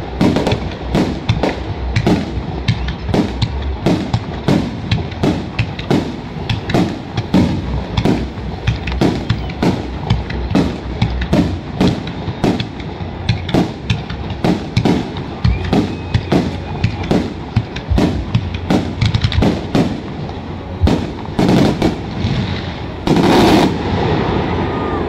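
Aerial fireworks shells bursting in a rapid string of sharp bangs, about two a second, with a louder flurry of bursts near the end.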